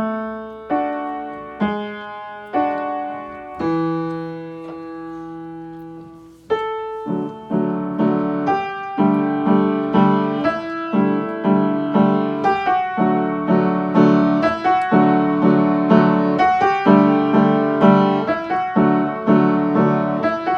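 Piano playing: a few single notes and short phrases that ring and die away, then from about six seconds in a melody over steadily repeated chords.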